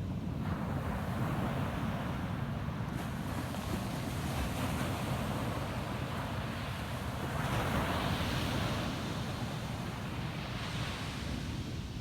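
Ocean surf breaking and washing in, over a steady low rumble. The hiss of the wash swells about half a second in and again, louder, around two-thirds of the way through.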